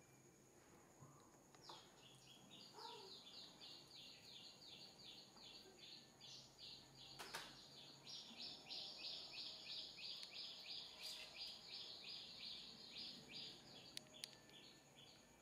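A small bird chirping in a long, fast, even series, about four high chirps a second, that starts about a second and a half in and stops just before the end. A single sharp click falls about halfway through.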